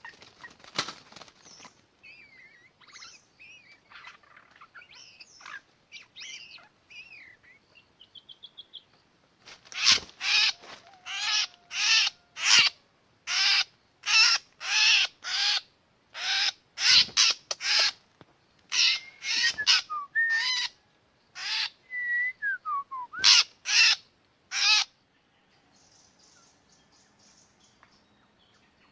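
White-rumped shama (murai batu) singing softly in varied whistled phrases, then a run of loud, harsh, rasping calls at about one and a half a second for some fifteen seconds, stopping abruptly; a faint insect buzz remains near the end.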